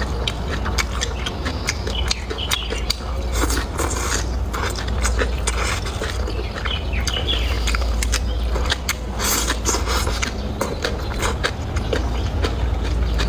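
Close-miked eating: a person chewing and crunching food, with many irregular sharp clicks and crackles, over a steady low hum.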